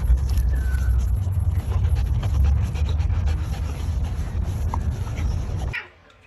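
Dog panting over a heavy, steady low rumble; the sound cuts off suddenly near the end.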